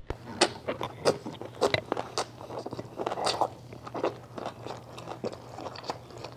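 Close-up chewing of a mouthful of whole-wheat tortilla wrap with steak, kimchi and vegetables: irregular wet crunches and clicks of the mouth.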